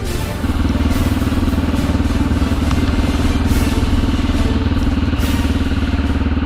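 Suzuki DR650SE single-cylinder engine running at steady revs through a SuperTrapp exhaust, with the pitch holding constant as the motorcycle cruises; it comes in about half a second in.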